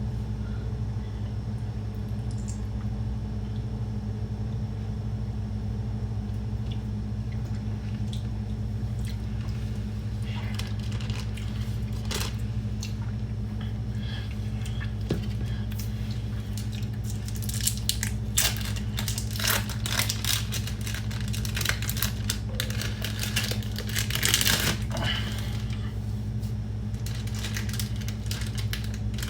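Kitchen handling sounds during breakfast and coffee making: scattered clicks, rustling and crinkling, busiest in the second half, over a steady low hum.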